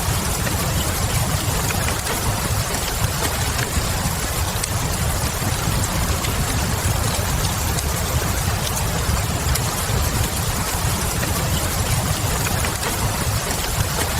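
Steady rain mixed with the light crackle of a wood fire, over a constant low rumble, with scattered small pops.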